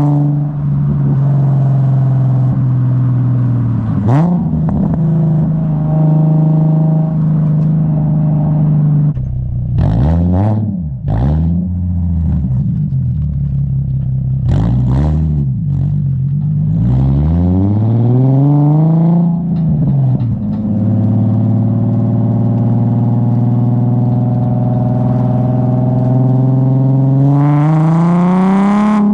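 Infiniti G37S coupe's 3.7-litre V6 sounding through a custom 3-inch single catback exhaust: a steady drone at even engine speed, broken around the middle by several quick rises and falls in pitch, then a long climb in pitch near the end as the engine revs up.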